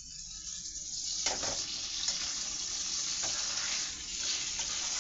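Chicken nuggets sizzling in butter and hot sauce in a frying pan, a steady hiss that grows fuller about a second in, with a faint knock or two.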